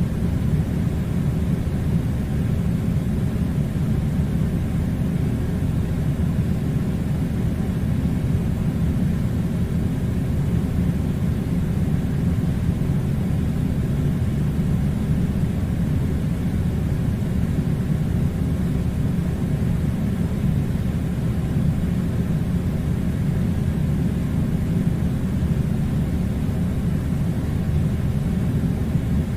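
Air conditioner running: a steady, unchanging low rumble of blowing air.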